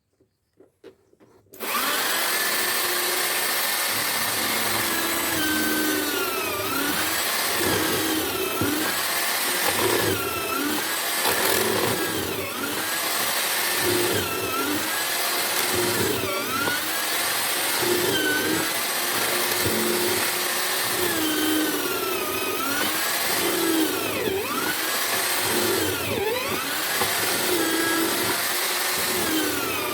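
Motor of a homemade drill-powered wood mortiser starting up after a few faint clicks, then running steadily. Its pitch dips and recovers about every two seconds as the bit is plunged into the wood to cut a mortise.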